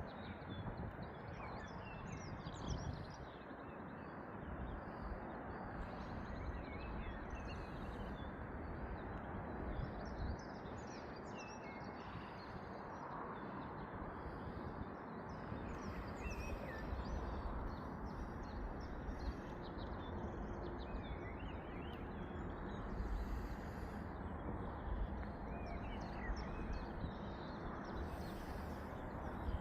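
Small birds chirping and singing over and over, many short high calls, over a steady rushing outdoor background.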